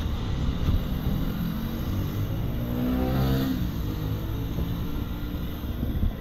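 Kawasaki ZX-25R's 250 cc inline-four engine running low as the bike slows almost to a stop, with wind rush on the microphone. About three seconds in, an engine note swells and fades.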